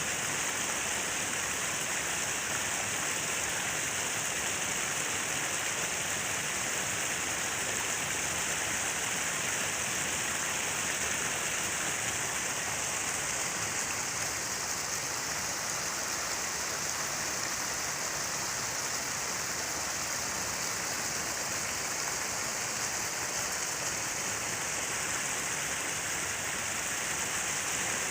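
Falling water splashing steadily, a constant, even hiss.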